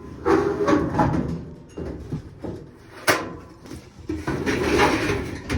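Clothes dryer drum and parts being handled and slid back together during reassembly after a rear drum bearing replacement: irregular scraping and rubbing, with a sharp click about three seconds in.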